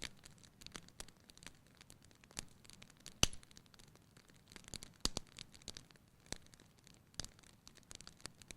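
Wood fire crackling in a fireplace: irregular snaps and pops over a soft hiss of flame, with a sharper pop about three seconds in and another about five seconds in.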